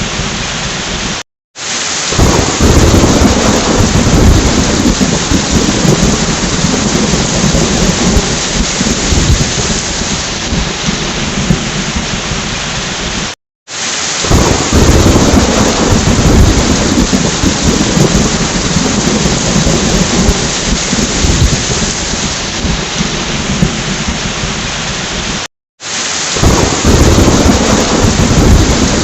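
Heavy rain falling steadily, with rolling thunder rumbles. The sound cuts out for a split second about every twelve seconds, each time followed by a loud rumble of thunder, as a short recording is looped.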